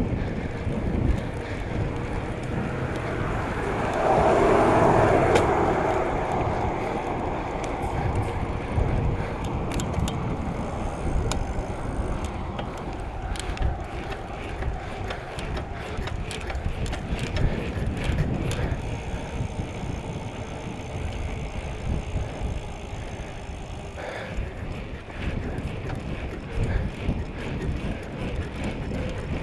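Ride noise from a bicycle on the road: wind rumbling on the microphone and tyre noise, with scattered light clicks. A louder swell comes about four seconds in and fades over the next two seconds.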